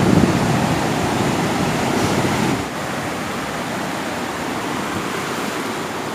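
Sea surf washing on the shore, a steady rush of noise that eases off a little about two and a half seconds in.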